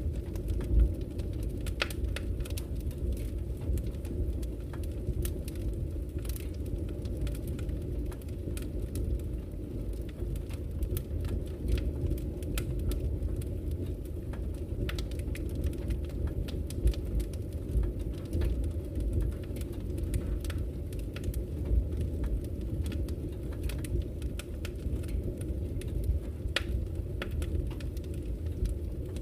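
Wood fire burning in a fireplace, crackling and popping in irregular sharp snaps over a steady low rumble; the sharpest pop comes about a second in.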